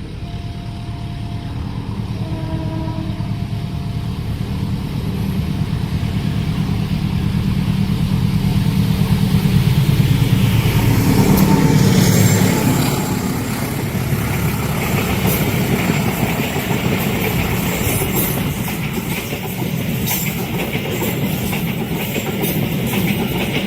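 Passenger train passing at speed. The diesel locomotive's rumble builds to its loudest about ten to twelve seconds in, then the carriages run by with rapid clicking of wheels over rail joints. A horn note dies away in the first few seconds.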